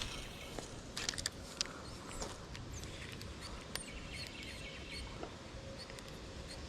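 Small birds chirping over a steady outdoor background hiss, with a few light clicks about a second in.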